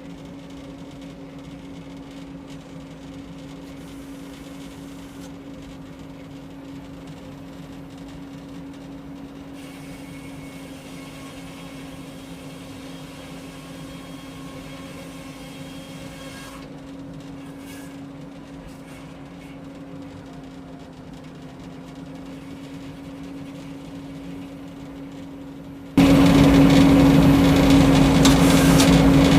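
Frick sawmill running at a steady speed with a constant hum. Near the end it suddenly becomes much louder and harsher.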